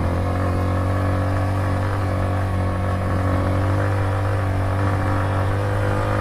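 Yamaha M-Slaz 150 motorcycle's single-cylinder engine running steadily under load, pulling up a steep hill at an even pitch.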